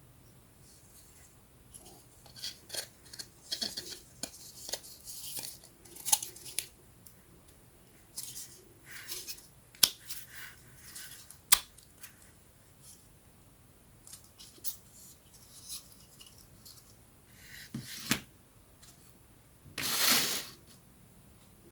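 Laser-cut plywood puzzle pieces being pressed out and fitted together by hand: irregular sharp clicks and snaps with short scraping rustles, and a longer scrape lasting about a second near the end.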